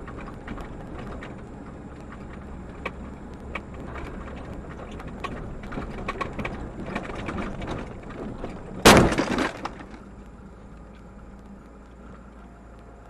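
Vehicle noise with scattered clicks, then a loud car crash about nine seconds in: one collision impact with breaking, lasting about a second.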